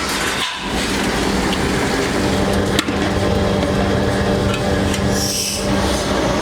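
Workshop machinery running with a steady hum and scraping noise, with a single sharp knock about three seconds in and a short hiss near the end.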